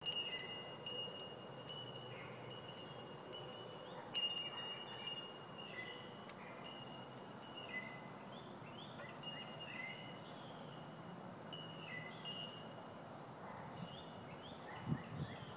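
Rain bell wind chime mobile tinkling: small bells strike lightly again and again, each strike ringing on in a clear high tone. The strikes come often at first and thin out in the second half.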